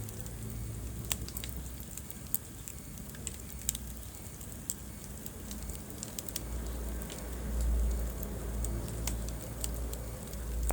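Wood fire burning in a fireplace, crackling with scattered sharp pops, over a low rumble that swells in the second half.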